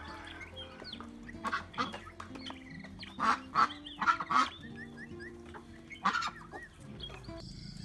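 Domestic waterfowl calling: a few loud, harsh calls, bunched together in the middle and with one more near the end, over soft background music.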